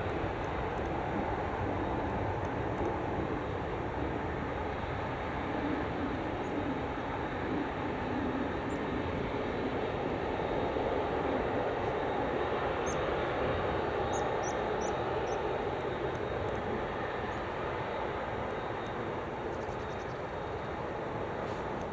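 Jet airliner engines running loudly, a steady rumble that swells slightly towards the middle and cuts off abruptly at the end.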